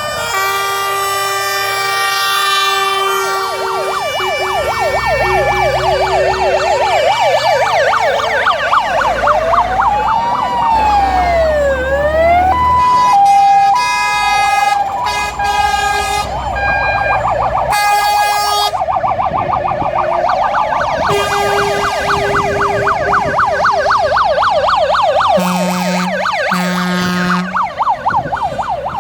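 Fire engines' sirens sounding together as a column of trucks drives past: several fast yelping sirens overlapping with held horn tones. About ten seconds in, a slow wailing siren rises and falls, and near the end come two short low horn blasts.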